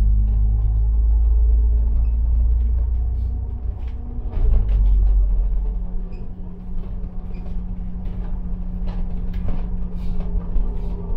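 A bus's engine running with a heavy low rumble, scattered clicks and rattles over it. The engine note changes about four and a half seconds in and then holds a steady hum.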